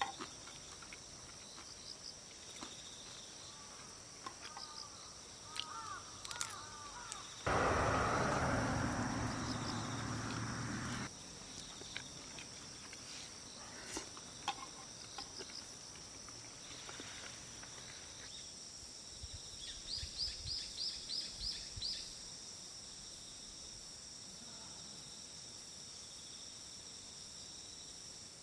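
Outdoor ambience of insects trilling steadily at a high pitch, with bird chirps. About seven seconds in, a loud rushing noise lasts for roughly three and a half seconds. Around twenty seconds in, a bird gives a quick run of about seven rising chirps.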